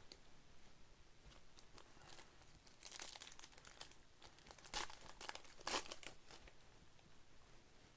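Plastic wrappers of Panini Select basketball card packs being crinkled and torn open in short rasps, with two louder rips just past halfway.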